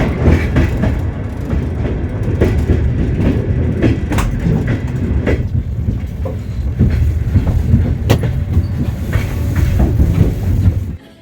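Passenger train running on the rails: a steady low rumble of the wheels with sharp clicks now and then as they pass over rail joints. The sound cuts off suddenly near the end.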